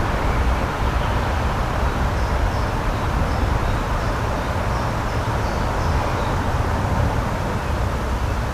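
Steady, loud outdoor rushing noise with no breaks, heaviest in the low end, with a few faint high bird chirps in the middle.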